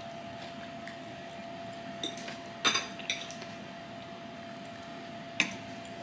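Cutlery clinking and scraping against a dinner plate during a meal: a few sharp clinks, the loudest and most ringing about two and a half seconds in, and a last one near the end.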